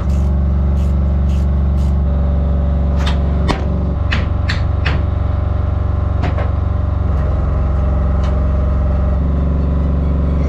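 An engine running steadily at a constant speed in a barge's engine room, loud enough to drown out speech. Several sharp clicks and knocks are heard over it, most of them in the first half.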